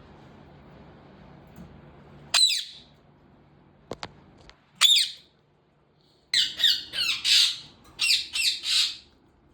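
Indian ringneck parakeet squawking harshly: two single calls, then a quick run of about seven calls in two bunches in the second half.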